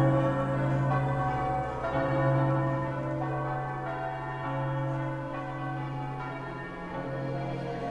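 Church bells ringing in slow strokes, their deep tones ringing on and overlapping as new strokes come in.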